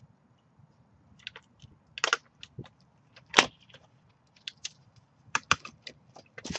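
Irregular sharp clicks and cracks from a small wooden pole ladder, its rungs tourniquet-lashed with cord, as a man stands on it and climbs down. The loudest crack comes about three and a half seconds in.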